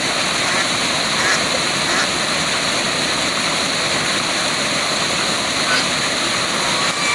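Waterfall: a steady, dense rush of falling water, with a few faint brief high-pitched sounds over it.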